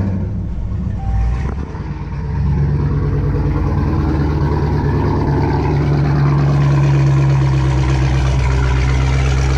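Supercharged 6.2-litre Hemi V8 of a Dodge Hellcat, fitted with catless mid pipes and a muffler delete, just started and settling into a steady, loud, rumbling idle. A short beep sounds about a second in.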